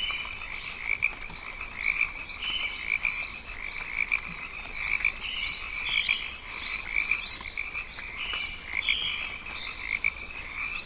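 Frogs calling in a chorus: a high pulsing call repeated over and over, with short, higher chirps scattered over it.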